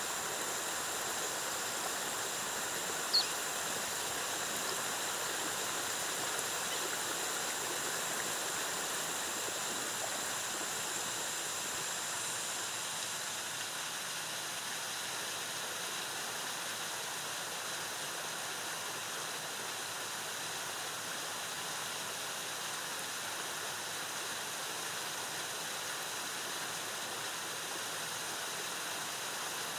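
Rainforest waterfall: a steady rush of cascading water. A thin, steady high tone sits over it and fades out about halfway through, and a single short, sharp high chirp comes about three seconds in.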